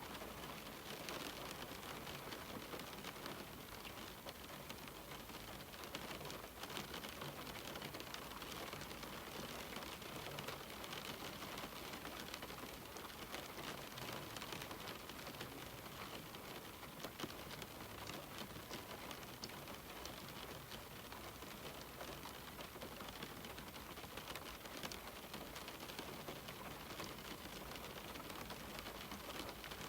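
Steady rain falling on a window, an even hiss of rain dotted with many small drop ticks against the glass.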